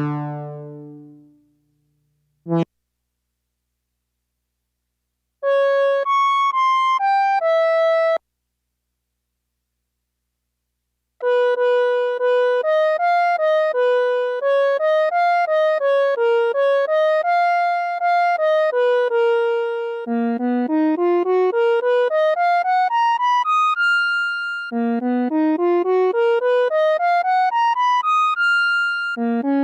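Suiko VS-1 koto synthesizer playing a melody. A low note dies away at the start and a brief click comes at about two and a half seconds. A short phrase of notes follows about five seconds in, then, after a pause, a steady stream of quick notes from about eleven seconds that turns into repeated rising runs in the second half.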